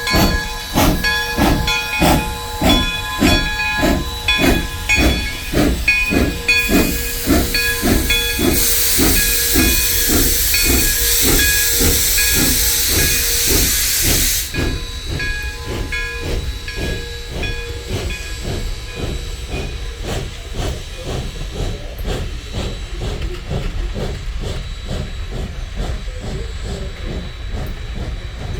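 Steam locomotive pulling away with a train, its exhaust beats coming steadily and quickening. A loud hiss of escaping steam lasts several seconds in the middle. Later the beats fade into a steadier rolling rumble as the train moves off.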